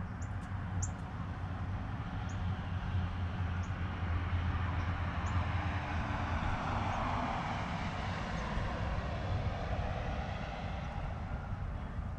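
Distant engine noise of a passing vehicle swells to its loudest in the middle and then fades, over a steady low hum. A few faint, short, high bird chirps sound now and then.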